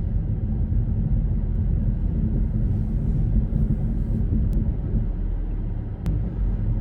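Car engine running with a steady low rumble while the car tries to drive up a driveway in thick snow, a climb it fails to make.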